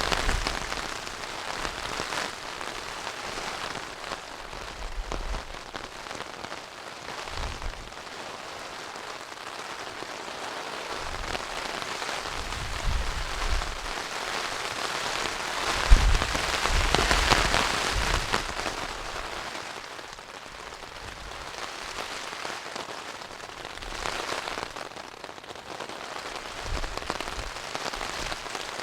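Rain falling steadily in a windy storm, swelling louder for a couple of seconds about sixteen seconds in, with short low rumbling thumps now and then.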